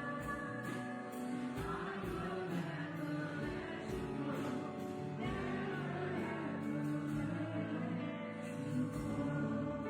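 Congregational worship music: a band and keyboard with sung vocals, over a steady beat of about two ticks a second.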